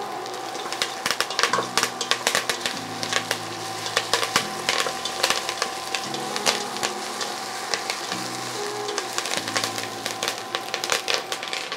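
Chopped onions and herbs frying in hot oil in a stainless steel pot, sizzling steadily, with many short clicks and scrapes as a plastic spatula stirs them against the pot.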